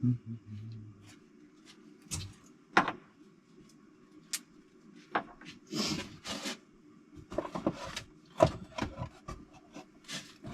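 Engine parts being handled on a workbench: scattered sharp clicks and knocks with a few short scraping rubs, the loudest knocks near the start, just under 3 seconds in, and about 8 seconds in.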